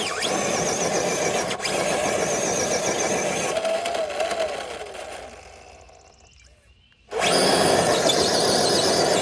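A Traxxas TRX4 RC truck's electric motor and geared drivetrain whining under load as it drags a weighted sled. The noise dies away about five seconds in and cuts back in, louder, about two seconds later.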